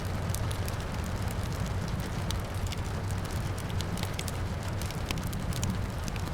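Wood fire crackling, with many sharp pops and snaps over a steady low rumble, and rain falling in the background.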